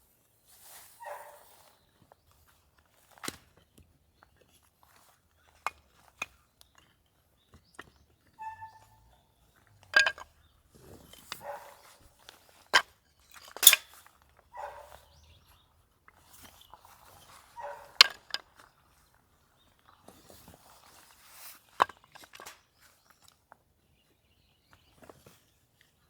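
Irregular handling sounds: sharp clicks and knocks a few seconds apart, mixed with short rustling scrapes.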